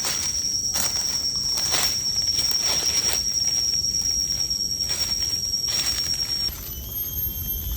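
High, steady insect trill, likely a cricket or cicada, that stops about six and a half seconds in, with a fainter high trill after it. Soft repeated knocks come roughly once a second.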